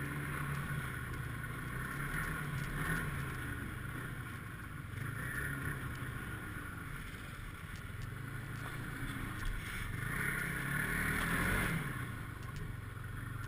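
Snowmobile engine running under way, its pitch and loudness rising and falling with the throttle, loudest near the end.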